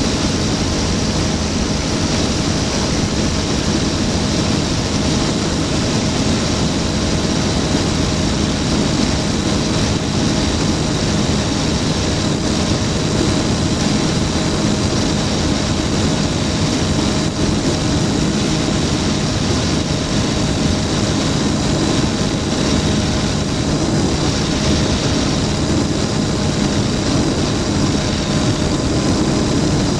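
Flightstar II light sport aircraft's engine and propeller running steadily at a constant power setting, an even drone with no change in pitch.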